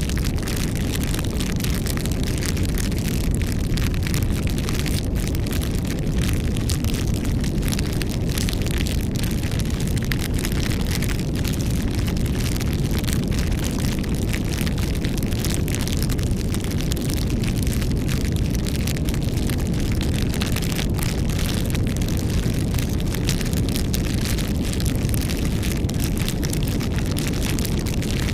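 Wood campfire burning: a steady low rumble with many small crackles and pops scattered throughout.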